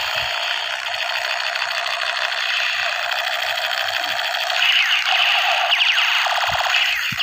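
Battery-powered toy sniper rifle's electronic firing sound from its small built-in speaker: a fast, buzzing stream of repeated electronic shots, with a few quick zaps about two thirds of the way in.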